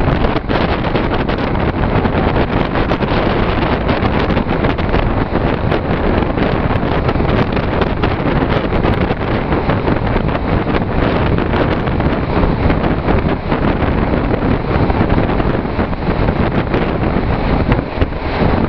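Wind buffeting the microphone over the steady running noise of a passenger train moving along the track, with faint clicks throughout.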